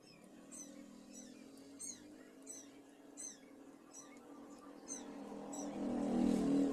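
A small bird chirping over and over, short high falling notes about one and a half a second, over a steady low hum. A low rumble swells up near the end.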